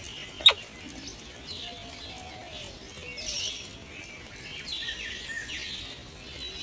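Common blackbirds chirping at the nest: faint high calls, with one loud, sharp falling chirp about half a second in.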